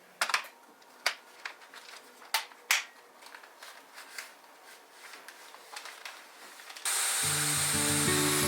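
Scattered clicks and knocks of hard plastic parts of a cordless stick vacuum being handled, several sharper ones in the first three seconds. Near the end a steady hiss starts suddenly, with background music coming in.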